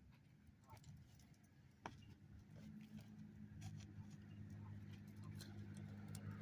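Faint scattered ticks, and from about two and a half seconds in a low steady hum that slowly grows louder.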